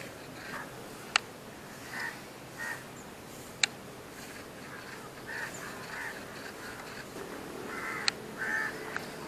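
Short harsh bird calls come several times over steady outdoor background noise, with a cluster near the end. Three sharp clicks cut through, about a second in, midway and near the end.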